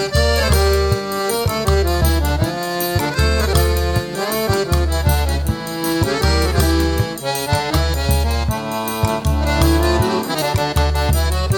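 Instrumental forró pé de serra: an accordion plays the melody over a steady bass beat pulsing about once a second, with fast, bright percussion ticking throughout. No singing.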